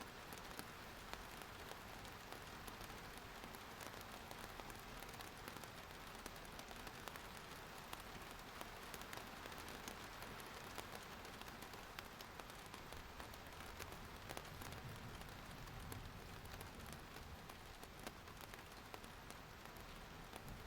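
Steady rain falling on surfaces, a soft even hiss with many small drop ticks.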